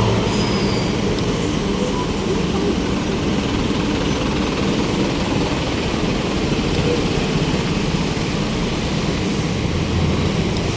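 Steady city road traffic noise: motor vehicles running on a busy street, a constant low rumble with no single event standing out.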